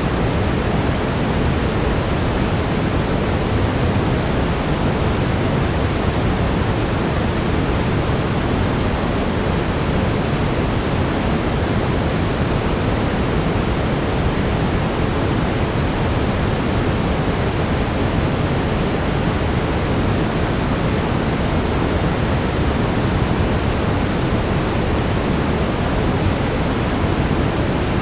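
Steady brown noise: an even, unchanging rush of hiss, heaviest in the low end.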